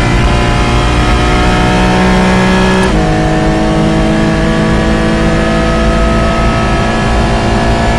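Porsche Cayman GT4's 3.8-litre flat-six pulling at full throttle, heard from inside the cockpit, its pitch climbing steadily. About three seconds in the pitch drops sharply at an upshift, then climbs again as the car keeps accelerating.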